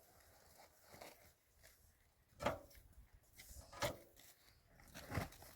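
A few dull knocks, about four of them roughly a second and a half apart, the second the loudest, over faint background noise.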